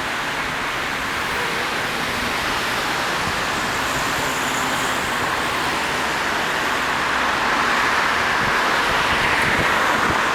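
Heavy road-transport truck moving slowly: a steady rushing mix of engine and tyre noise that swells slightly toward the end.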